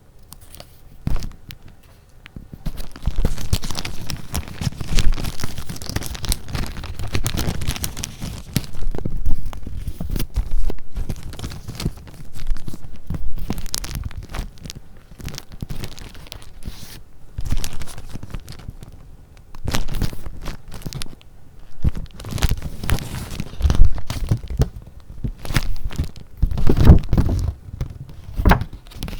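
Paper handled close to the microphone: sheets and paper goods rustling and crinkling in irregular bursts, with soft thumps.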